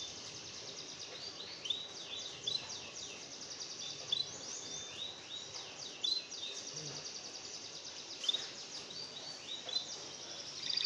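A small songbird giving quiet runs of short, high, down-slurred chirps in several bursts, over a steady background hiss.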